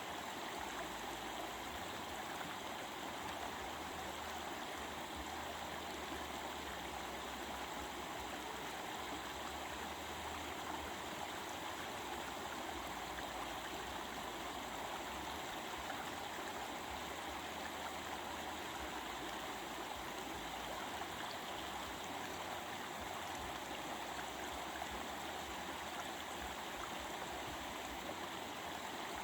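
Stream water flowing and babbling steadily over rocks.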